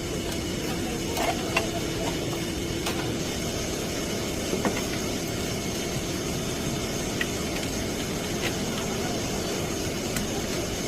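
GMC vehicle driving, a steady rumble of road and drivetrain noise with a few light clicks.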